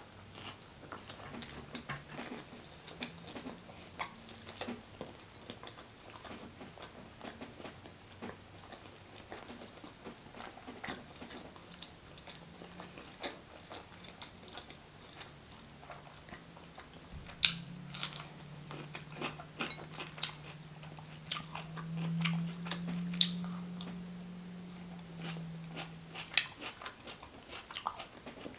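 Close-miked eating sounds: chewing butter chicken, rice and garlic naan, with many small wet clicks and crunches, and bites of raw cucumber. A low steady hum sounds through the second half.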